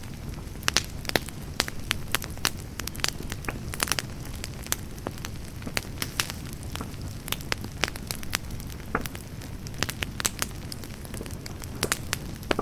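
Wood campfire burning, crackling with frequent irregular sharp pops over a steady low rumble of the flames.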